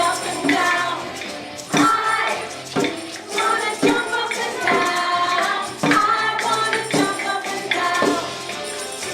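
A song with group singing over a musical accompaniment that has a tambourine and a steady beat of about one stroke a second.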